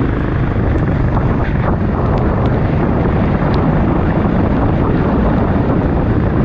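Steady wind buffeting on the microphone of a go-kart out on a wet track, covering the kart's engine.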